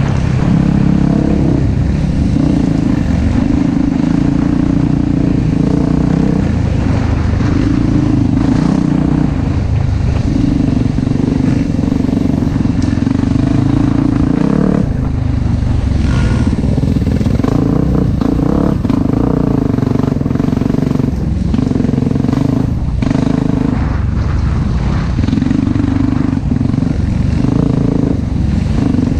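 Four-stroke off-road dirt bike engine running hard, the throttle opening and closing every second or two, with scattered knocks and clatter from the bike over rough trail.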